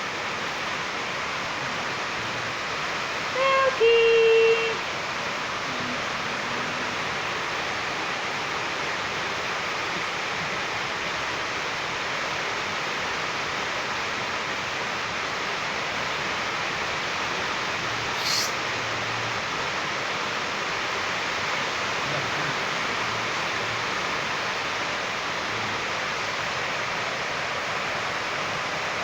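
Steady hiss of rain. About four seconds in comes a short, loud pitched call, and a faint brief chirp comes near the middle.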